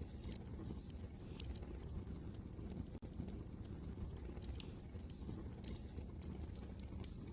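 Wood fire crackling in a fireplace, with irregular sharp pops and ticks several times a second over a steady low rumble of wind.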